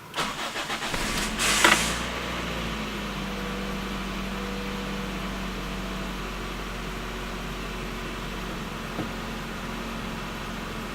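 1989 Toyota Corolla EE90's 1.3-litre 2E four-cylinder engine started from cold: the starter cranks with a rhythmic beat for about a second and a half, the engine catches with a brief rev, then settles into a steady idle.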